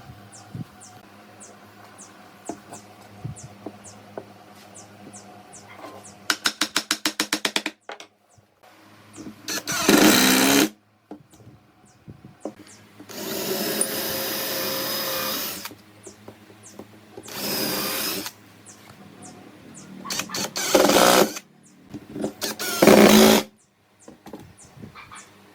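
A power tool in woodworking, started and stopped in five short runs of one to three seconds each. Before them comes a quick run of rapid clicks, about ten a second.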